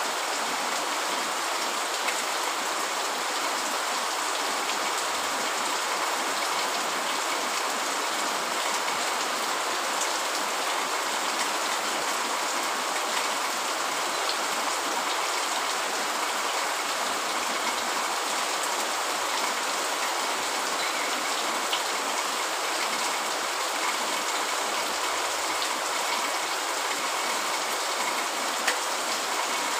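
Steady rain falling, an even hiss of drops with no change in level and a few faint scattered ticks.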